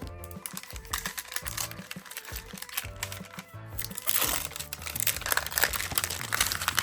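Background music over the crinkling of packaging being handled as a new speaker is unboxed; the crinkling gets louder and denser about four seconds in.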